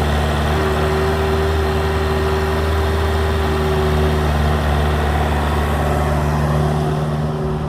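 An engine running steadily at a constant speed, with a low, even hum and a faint steady whine above it.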